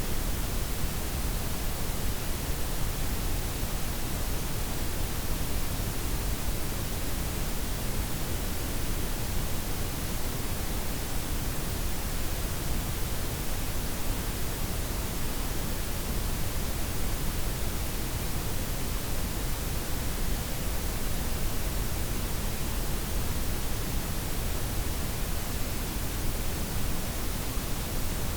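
Steady synthetic noise: a blend of white, pink and brown noise with the highs softened, an even hiss over a heavier deep rumble, unchanging throughout.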